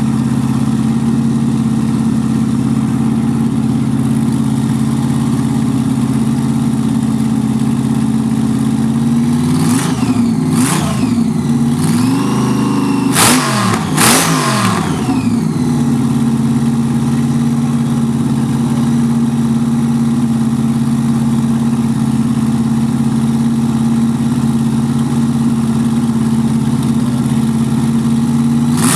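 Car engine idling steadily, blipped several times in quick succession about ten to fifteen seconds in, each rev rising and falling back to idle.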